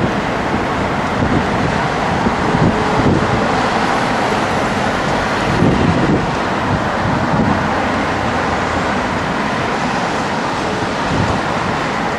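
Boeing 747-400F's jet engines running as a steady roar, with gusting wind buffeting the microphone and a faint rising whine over the second half.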